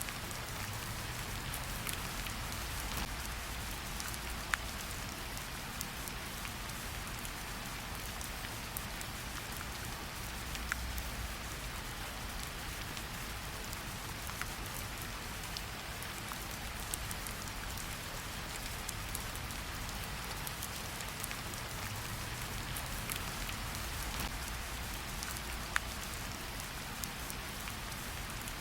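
Steady hiss like rain falling on a surface, with scattered light ticks throughout.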